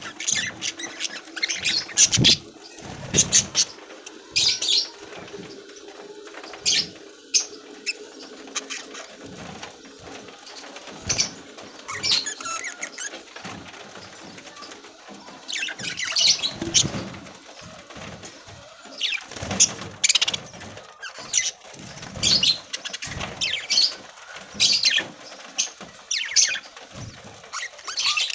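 A flock of budgies chattering and chirping in an aviary, with bursts of wing flapping; the loudest flapping comes about two to three seconds in and again about sixteen seconds in.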